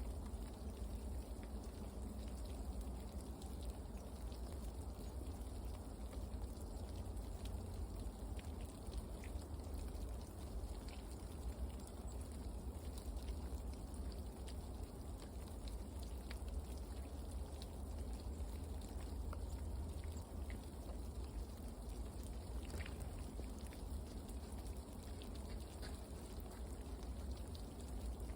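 Outdoor ambience: a steady low rumble with faint, scattered short ticks throughout.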